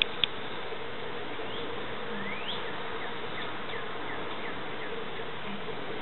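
Steady outdoor hiss with a low, even hum. Two sharp taps come right at the start, then a run of faint, short, high bird chirps in the middle.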